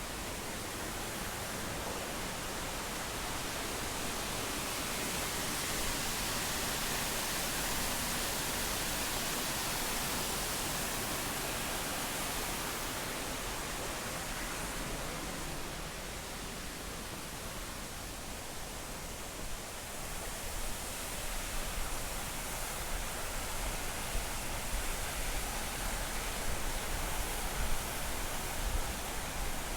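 Steady rushing hiss of the Triberg waterfall's cascading water, swelling a little early on. About two-thirds of the way in, irregular low bumps join it.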